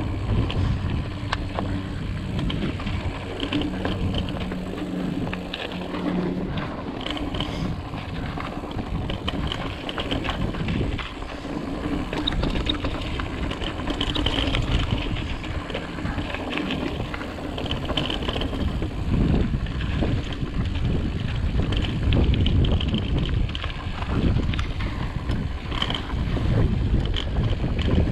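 Ibis Ripley full-suspension mountain bike being ridden over rock: wind buffeting the microphone over the tyre noise, with steady small clicks and knocks from the bike rattling over the rough ground.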